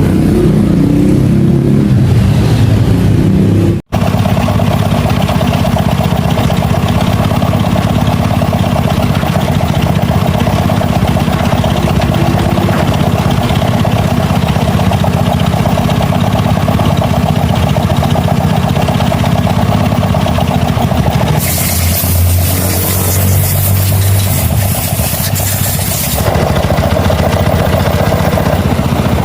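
Small motorcycle engine running steadily, in several edited clips, with a brief dropout about four seconds in.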